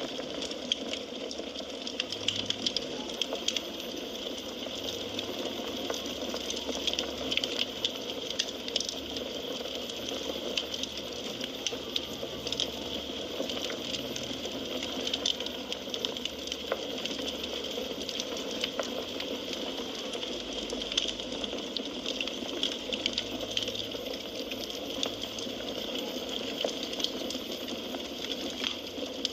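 Burning firewood crackling: a steady hiss with frequent small, sharp pops and snaps.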